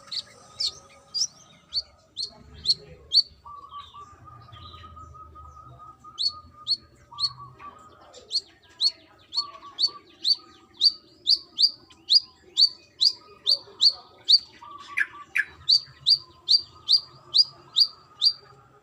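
Brown-throated sunbird calling: a rapid series of sharp, down-slurred chip notes, about two to three a second. A short run comes at the start and a long, even run begins about six seconds in.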